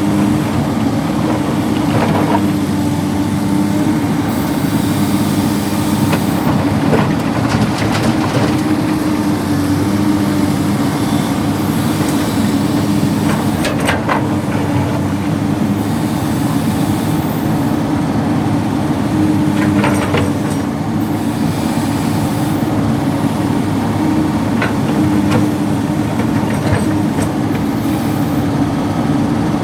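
Excavator's diesel engine running steadily under hydraulic load while loading stones, with a few sharp knocks of stone in between.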